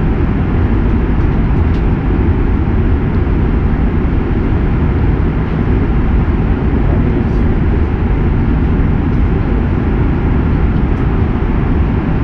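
Steady low roar of engine and airflow noise inside the passenger cabin of an Airbus A330-300 in flight.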